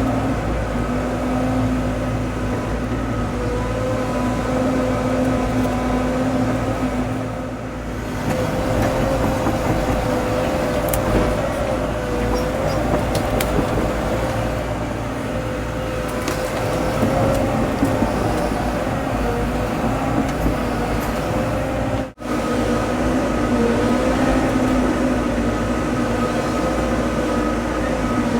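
Diesel engine of a tracked excavator running steadily under work, its pitch wavering slightly as the hydraulics load it, with a few light metallic clinks. The sound drops out for an instant about two-thirds of the way through.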